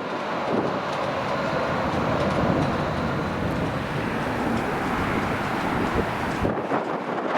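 Aircraft engine noise, a steady rumble that fades about six and a half seconds in, with wind buffeting the microphone.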